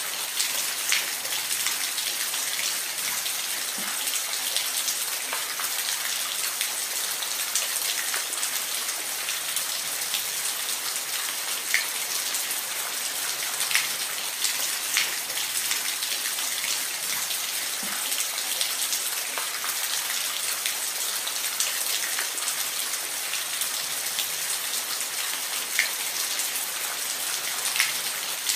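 Falling water making a steady hiss, with scattered sharp droplet ticks here and there.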